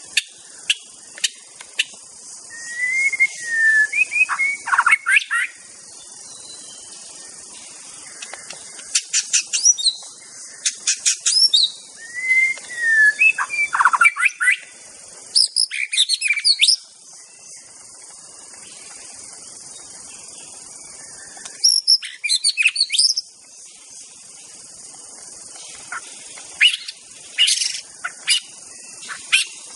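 White-rumped shama (murai batu) singing in separate phrases of whistled glides and sharp high chips, with pauses of several seconds between them, over a steady high hiss.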